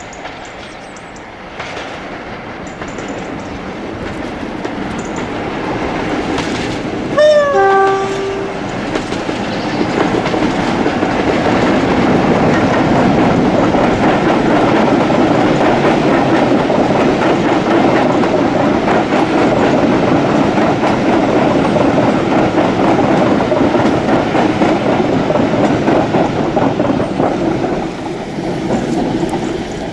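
Diesel locomotive hauling a train of coaches approaches and passes close by, its engine and the coaches' wheels running loud and steady. About seven seconds in, its two-tone horn sounds briefly: a rising note, a high tone, then a low tone. The sound drops away near the end as the last coach passes.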